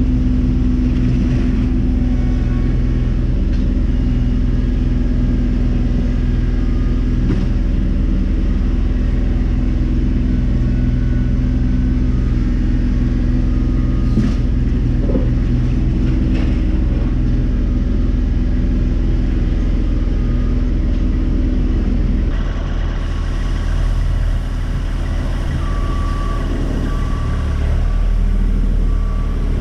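Diesel engine running steadily. About twenty-two seconds in the sound changes, and a few seconds later a reversing alarm starts beeping at an even rhythm.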